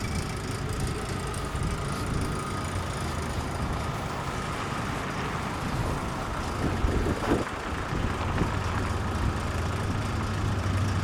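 A motor vehicle engine idling steadily, its low hum growing a little stronger about eight seconds in.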